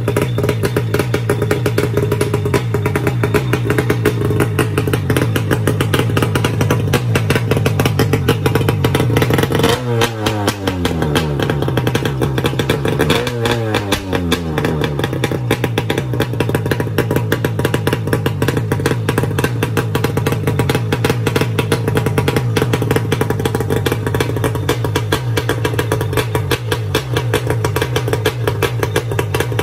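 Kawasaki 650 X2 two-stroke twin engine fitted with a belly exhaust, running steadily at a fast idle. About ten seconds in, and again about three seconds later, its revs dip briefly and then pick up again.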